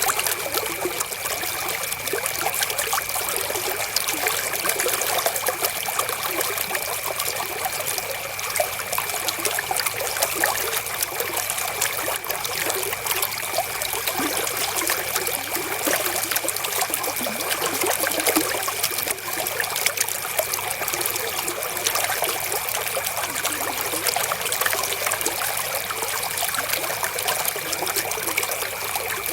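River water flowing steadily over stones, a continuous trickling and splashing with no breaks.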